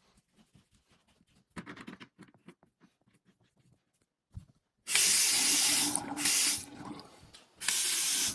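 Sink faucet turned on, water running hard into the sink, easing off and then running again near the end. Before it, light clicks and taps of parts being handled, with a single knock just before the water starts.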